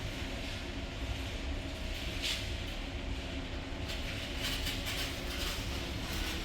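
Steady low mechanical rumble of a running vehicle or machine, with a few brief hissy swells.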